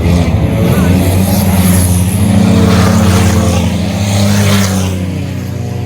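Race car engines running at speed as cars go past on the track, swelling through the middle and fading near the end.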